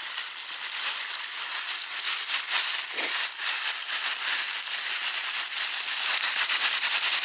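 Meat sizzling on a barbecue grill fired with oak wood: a dense crackle of many small pops over a steady hiss.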